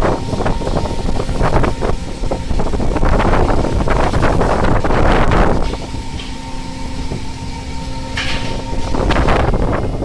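Fishing vessel's engine drone at sea, a steady low hum. Surges of wind and sea noise wash over it, the loudest about halfway through and another near the end.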